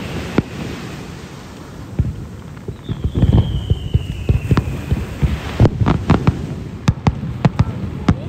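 Aerial firework shells bursting: a rapid, irregular string of bangs and low thuds, with a whistle falling in pitch about three seconds in. The bangs come sharper and thicker in the second half.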